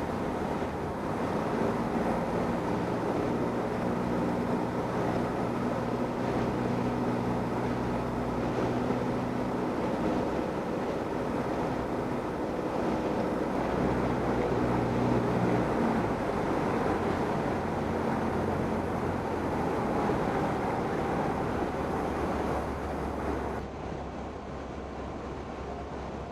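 Cessna 172N's four-cylinder Lycoming engine running at low power, heard inside the cabin under a steady rush of air noise. The engine's pitched drone fades out about two-thirds of the way through. The whole cabin noise drops a step a few seconds before the end.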